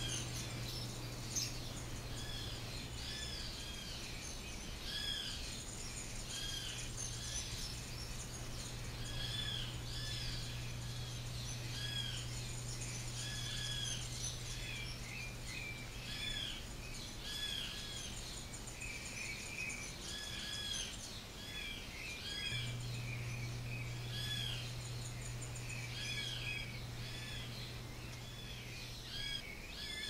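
Small birds chirping: short arched chirps repeated about once or twice a second, with a steady low hum underneath that drops out for a couple of seconds past the middle.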